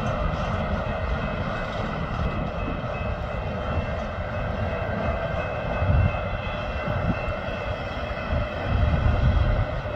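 Freight train rolling past: a steady rumble of cars on the rails with a steady faint whine above it, and a couple of heavier low swells about six and nine seconds in.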